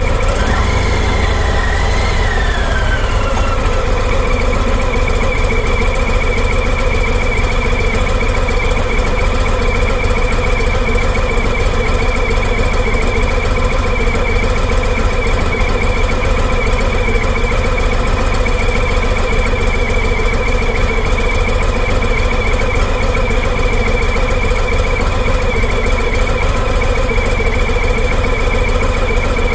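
Harley-Davidson Sport Glide's V-twin engine idling steadily, with a brief rise and fall in pitch in the first few seconds.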